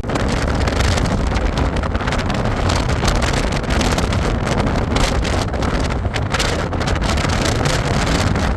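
Wind buffeting the microphone over the steady low rumble of a motorboat under way.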